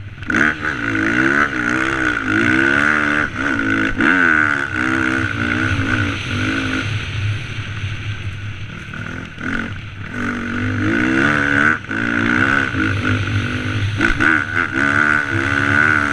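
Dirt bike engine revving up and down repeatedly as it is ridden, its pitch rising and falling every second or so, with a couple of brief drops in level.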